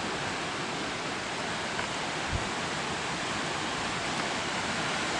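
Steady rushing of a mountain creek and its waterfall heard through the woods, growing slightly louder toward the end.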